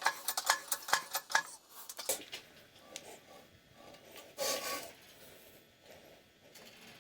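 Quick run of light clicks and taps from small metal parts and tools being handled at a workbench, easing off after about two seconds, then a short scraping rub about four and a half seconds in.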